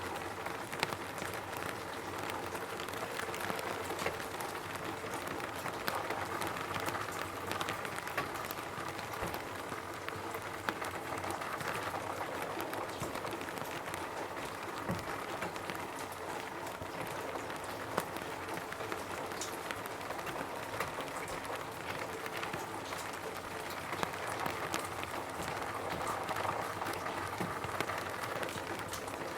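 Rain falling on a roof: a steady patter of many drops, with frequent single sharper drop hits standing out.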